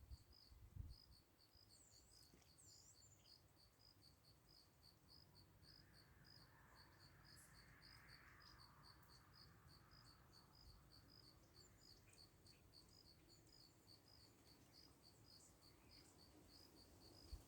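Faint cricket chirping steadily, about three short high chirps a second.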